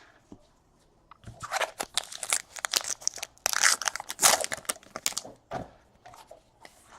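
A trading-card pack wrapper being torn open and crinkled by hand, a dense irregular crackle for about four and a half seconds.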